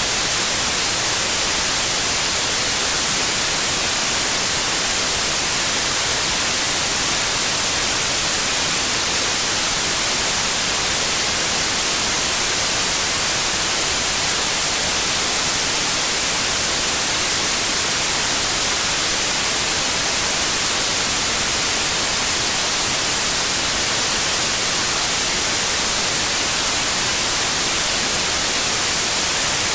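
Steady white noise: an even, unchanging hiss, brightest in the treble, with no breaks or changes in level.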